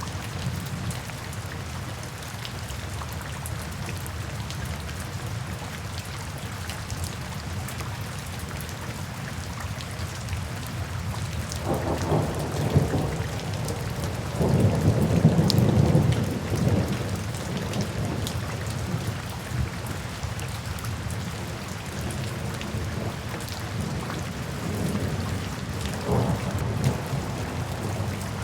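Steady rain falling, with rolls of thunder: a long low rumble swelling about halfway through, and a shorter one near the end.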